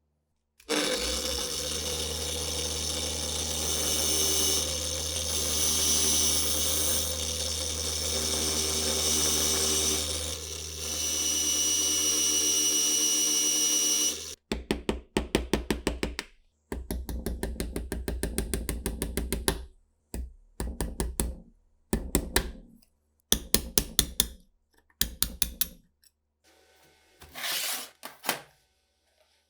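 A small electric power tool's motor runs steadily for about fourteen seconds, then starts and stops in a series of short bursts with a rapid pulsing in each.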